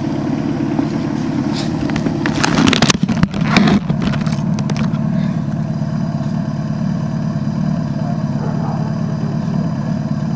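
Motorcycle engine idling steadily, with a short burst of clattering knocks about three seconds in.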